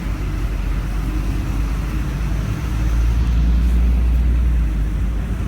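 Low rumble of a road vehicle passing on the street, swelling to its loudest a little past the middle and then easing off, over steady traffic noise.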